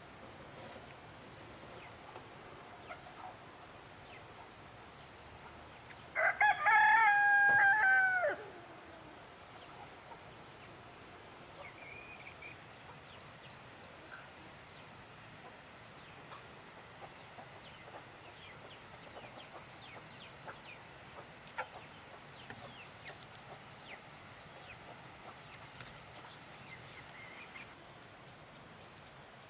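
A rooster crows once, about six seconds in: a loud call lasting about two seconds that drops in pitch at the end. Under it runs a steady high insect drone with faint, rapid chirping.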